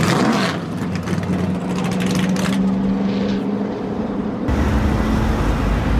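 Drift car's engine held at high revs through a smoky slide, a steady engine note. About four and a half seconds in the sound cuts abruptly to a deeper low rumble.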